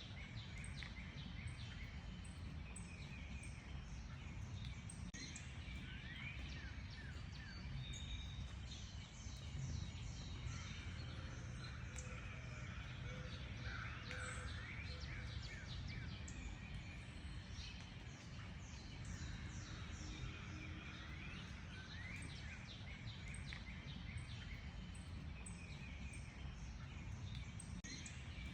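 A chorus of wild songbirds chirping and calling throughout, with many quick high notes and short rising whistles, over a steady low background rumble.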